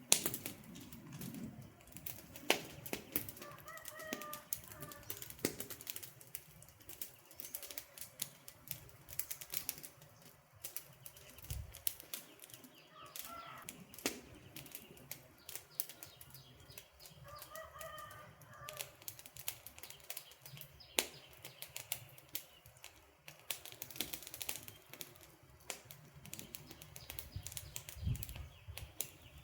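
Wood fire crackling: irregular sharp pops and snaps from burning logs over a soft low rush, with a few louder pops at the start, a couple of seconds in and around two-thirds of the way through.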